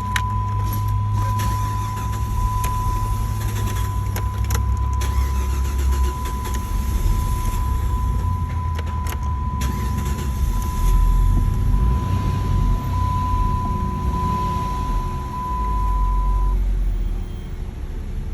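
2009 Dodge Charger's 2.7-litre V6 running with a low rumble as the car is driven, heard from inside the cabin, now running on its newly fitted fuel pump. A steady high-pitched tone sounds over it and stops near the end; a few clicks come in the first seconds.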